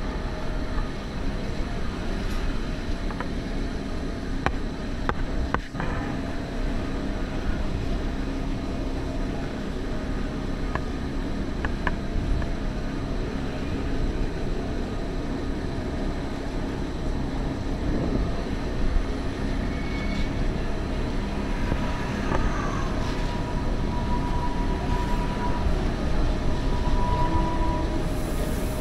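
Electric mountain railway train running downhill, heard from just outside a carriage window: a steady running rumble with wind on the microphone. There are a few sharp clicks about six seconds in, and a thin high whine near the end.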